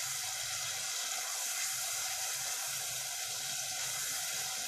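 Onion-and-spice masala sizzling steadily in oil and a little added water in a pot, the spices frying down and nearly done.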